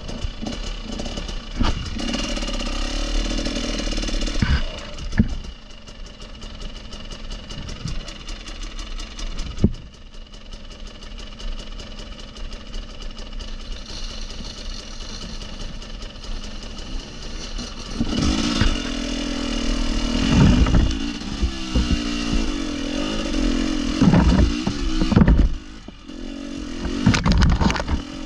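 Off-road vehicle engine running at low revs, then revved hard in repeated bursts through the last ten seconds as the vehicle crawls over rock. Sharp knocks and clatter of the vehicle on stone are heard throughout.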